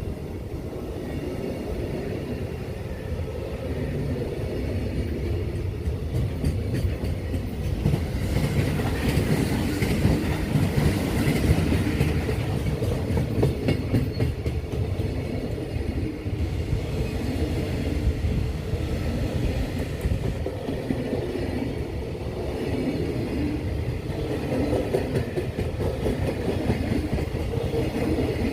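Long freight train passing at speed: a continuous rumble of wagons with the wheels clattering over rail joints, loudest in the middle.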